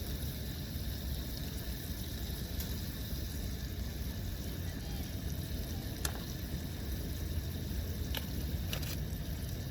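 Wood campfire with a few sharp pops about six, eight and nine seconds in, over a steady low rumble.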